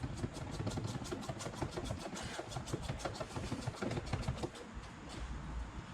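Rapid, even mechanical clicking, about eight clicks a second, during work on the door's plastic trim; it fades out a little over four seconds in.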